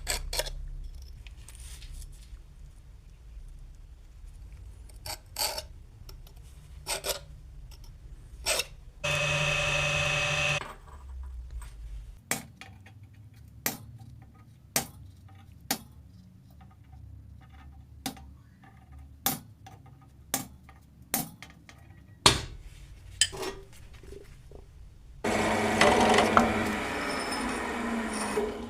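Metal parts and tools clinking and knocking one at a time in a metalworking shop. A power tool runs briefly about nine seconds in, and again near the end, where its pitch falls as it winds down.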